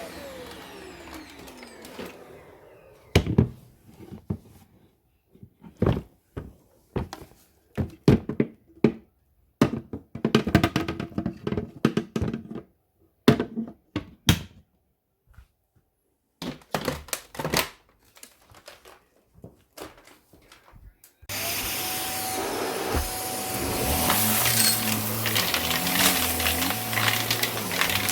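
Vacuum cleaner switched off, its motor tone falling as it winds down, followed by a series of irregular knocks and clicks. About 21 seconds in it is switched back on, its motor rising to a steady whine over the rush of air.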